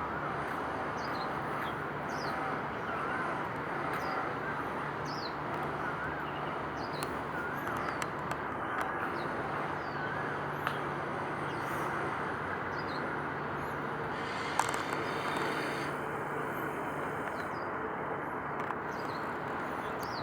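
Small birds chirping over and over, short falling chirps with a warbling call early on, above a steady background hiss and low hum of distant traffic and machinery. One sharp click about two-thirds of the way through.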